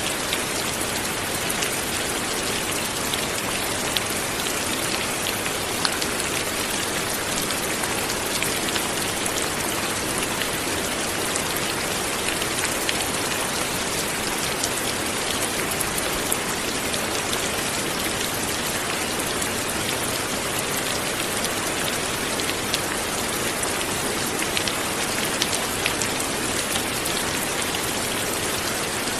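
Light rain falling steadily, a dense even patter of drops with many small individual drop ticks.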